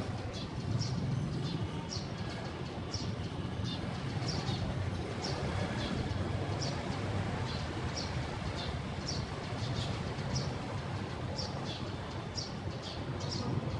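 A bird calling over and over, a short high note repeated about every two-thirds of a second, over a steady low background rumble.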